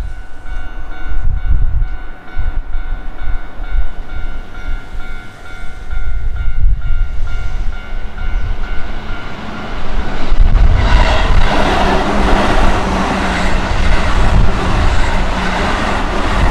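Keihan electric commuter train approaching and then passing close, with a steady whine at first. About ten seconds in it gets much louder as the cars go by, with wheels on the rails and a low motor hum. Wind buffets the microphone early on.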